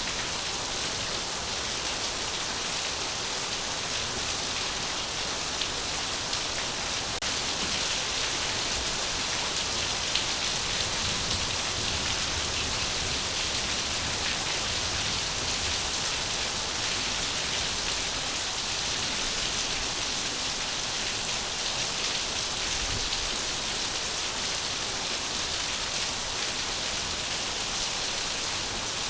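Steady rain falling, a continuous even hiss of many drops with no breaks or changes.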